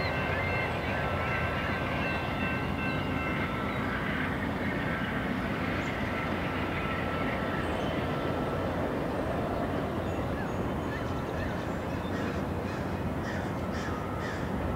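Trains rumbling on the rails: a VIA Rail passenger train moving away while CN freight 368's diesel locomotives approach on the next track. Thin, high squealing tones ride over the rumble through the first half and fade out about halfway.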